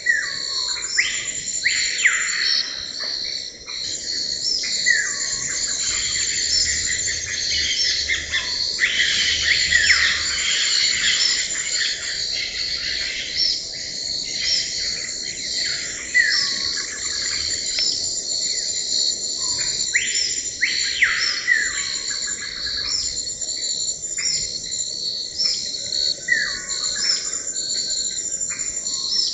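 Tropical forest chorus: a steady high drone of insects with a fast pulsing trill, over which birds call again and again, each call a whistle sliding down in pitch.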